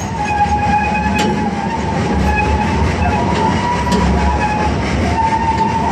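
Zoo railroad passenger car rolling along the track behind a steam locomotive: steady rumble and rattle of the running train, with a thin high squeal held above it.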